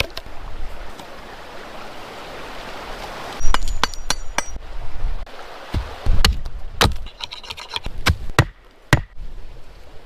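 A steady rasping hiss for about three seconds, then a run of sharp, irregular knocks and clinks, some with a low thud behind them, like hard objects being struck or handled.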